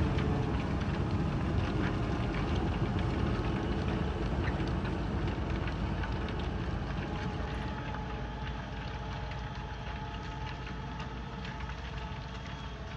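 Harvesting machine's engine running steadily with scattered light ticks, growing gradually fainter.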